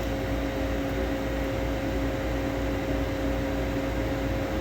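A steady machine hum: two held tones over an even hiss, with a low rumble that pulses gently underneath.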